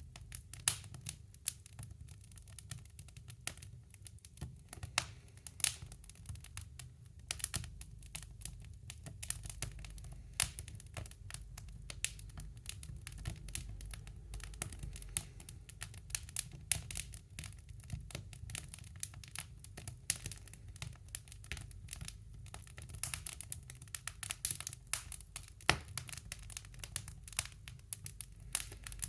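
Wood fire crackling in a woodstove: irregular sharp pops and snaps, several a second, over a low steady rumble of the burning fire.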